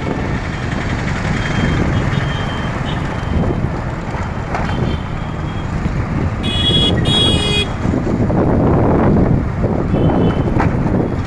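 Road traffic noise with rumble and wind, and two short vehicle-horn toots in quick succession about six and a half seconds in.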